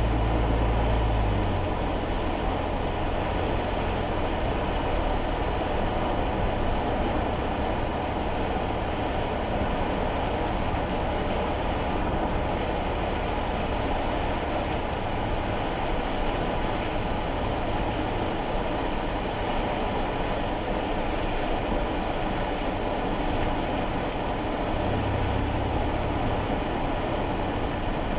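Steady road and tyre noise with rain, heard inside a kei car's cabin while driving on wet roads. A deeper rumble under it is stronger at the start and swells again briefly near the end.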